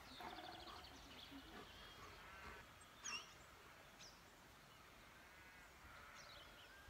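Near silence outdoors with faint birdsong: scattered short trills and chirps, including a quick falling whistle about three seconds in.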